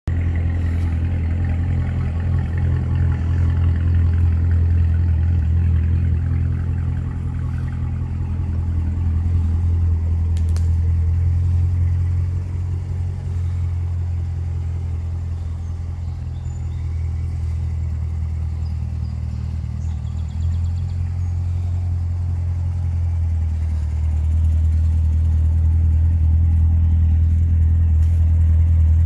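A 2018 Corvette C7 Z06's supercharged 6.2-litre V8 idling steadily, a low hum that grows and fades a little as the distance to the car changes.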